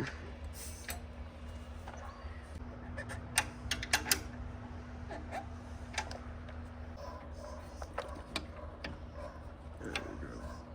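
Scattered metal clicks and taps of a tool working on a tractor battery's positive terminal as the cable is fastened, with a quick cluster of sharper clicks about four seconds in. A steady low hum runs underneath.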